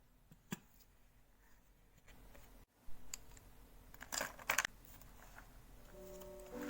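Scattered light clicks and handling noises, loudest in a quick cluster about four seconds in; soft music with steady notes comes in near the end.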